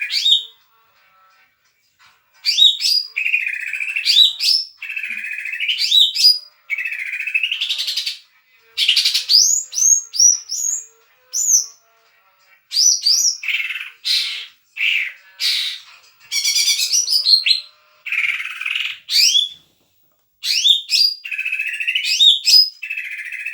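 Leafbird (cucak hijau) singing loudly in full song: phrases of sweeping rising and falling whistles and fast chattering notes, each lasting one to two seconds, repeated with short pauses between them.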